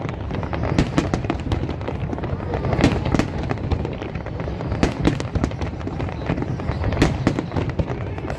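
Fireworks display bursting: a rapid string of sharp bangs and crackles, with the heaviest bursts about every two seconds.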